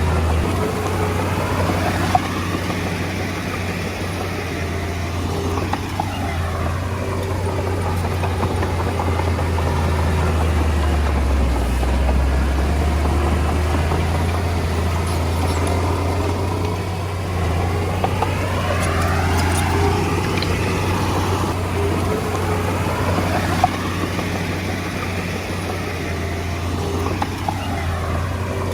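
Komatsu D20A bulldozer's diesel engine running steadily at work, a deep continuous hum, with a few sharp clanks of track or stone.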